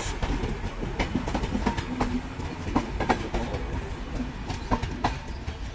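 Passenger train running on the track: a steady low rumble with irregular sharp clanks and clicks from the wheels on the rails.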